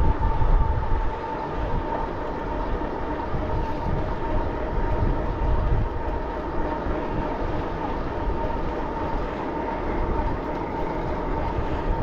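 Steady rumble of wind and tyre noise from a bicycle ride, with a constant high-pitched whine underneath.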